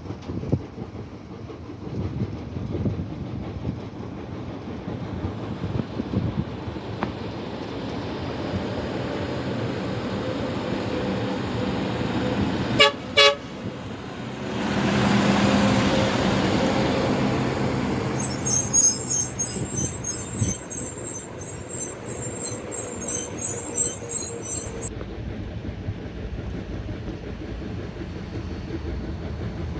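Highway traffic with a vehicle horn tooting twice in quick succession about halfway through, followed by a vehicle passing close by.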